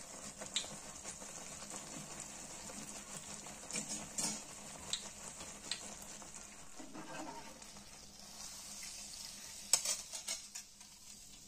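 Egg malpua batter deep-frying in hot oil: a steady sizzle with scattered crackles and pops, which bunch together into a few sharper pops near the end.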